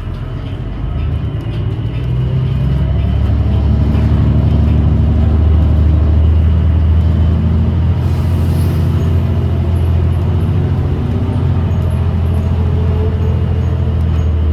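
New Flyer XDE40 diesel-electric hybrid city bus heard from inside while under way: a steady low drone and rumble that grows louder about two seconds in and then holds.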